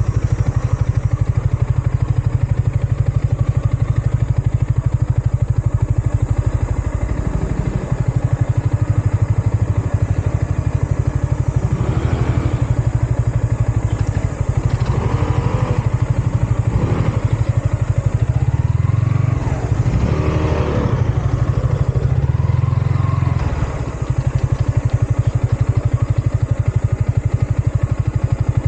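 Yamaha MT-15's single-cylinder engine and exhaust running steadily under way, with wind on the microphone. A few rising and falling engine tones come and go in the middle.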